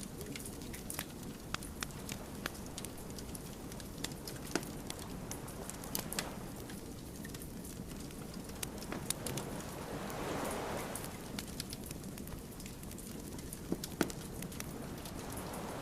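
Wood fire burning, crackling with irregular sharp pops over a low steady rush of flame, with a soft whooshing swell about ten seconds in.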